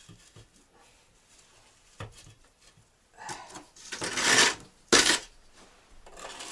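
A metal mason's trowel scraping against brick and adhesive mortar for about a second and a half, then one sharp knock, with a few faint clicks before it.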